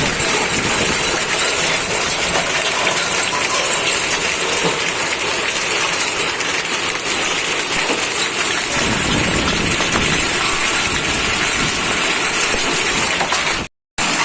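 Hailstones and rain pelting down in a steady, dense clatter during a hailstorm, with a brief break in the sound near the end.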